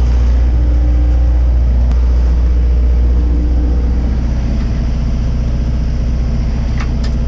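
Old Cummins diesel engine in a dump truck idling with a steady low note that turns into a pulsing throb about halfway through.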